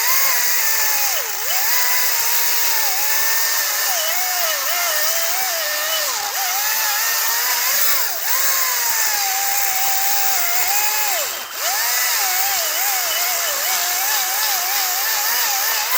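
Battery-powered electric chainsaw cutting into a tree trunk, its motor whine wavering and dipping in pitch as the chain bites and bogs in the wood, easing off briefly about eleven seconds in.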